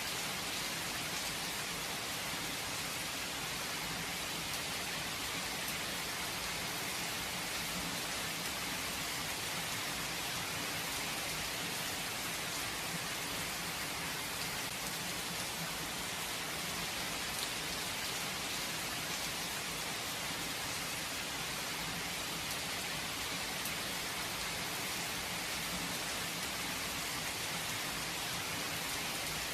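Steady rain falling without thunder: an even hiss of many drops, unchanging throughout.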